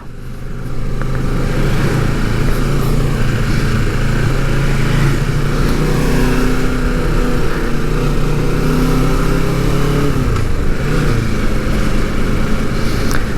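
Kawasaki motorcycle engine running under way, with wind rushing past. The engine note holds mostly steady, dipping and picking up again a couple of times as the throttle or gear changes.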